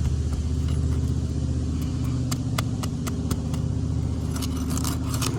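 A flat bar prying under asphalt shingles to break their sealant strip, making scattered sharp clicks and scrapes, over a steady low hum of a running engine.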